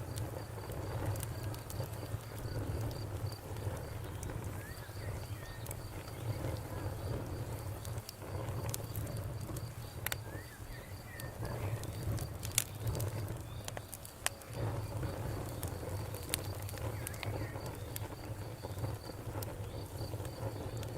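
Campfire crackling: scattered sharp pops and snaps of burning wood over a low, steady rumble of the flames. A steady, high pulsed chirping runs underneath.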